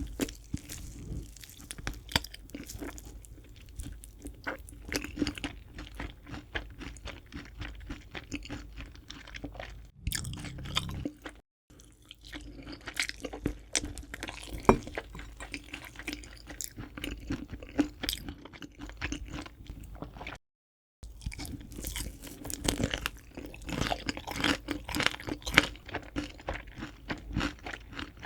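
Crispy fried chicken being bitten and chewed close to the microphone: a dense run of crackling crunches and chews. The sound cuts out twice to brief silence, a little before the middle and about three-quarters of the way through.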